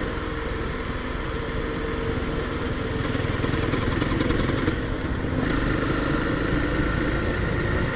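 Honda dual-sport motorcycle's single-cylinder engine running steadily under way, with wind noise on the microphone.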